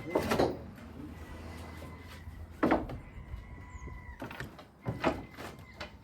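Knocks and creaks of lifting gear as a steel beam is raised: three loud sharp knocks, about two and a half seconds apart, with a faint steady high whine between the first two that stops about four seconds in.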